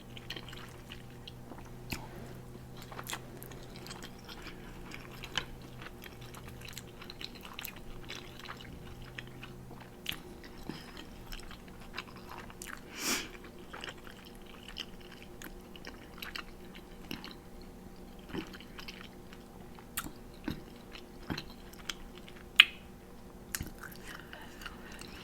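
A person chewing and eating spicy instant noodles close to the microphone: quiet, scattered wet mouth clicks and smacks, a couple of them louder, over a faint steady hum.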